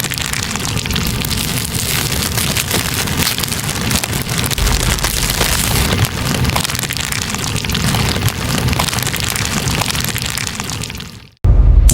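Metal sponge burning at close range: a dense crackling and sizzling full of tiny pops. It cuts off abruptly near the end.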